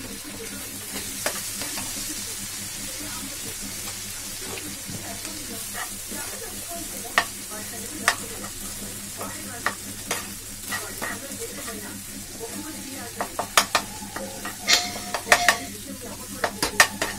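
Scrambled egg and sauces frying in a pan with a steady sizzle while a steel spoon stirs them. Sharp clicks and scrapes of the spoon against the pan come more and more often, thickest near the end.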